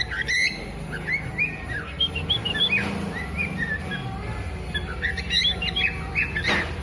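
Tame parrots chirping: a run of short, whistled chirps that rise and fall in pitch, several a second, with a brief rushing sound near the end.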